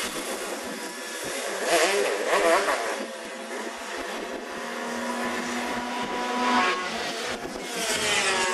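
Racing motorcycle engines running at high revs, their pitch sweeping up and down as bikes pass. There is a loud pass about two seconds in and another near the end.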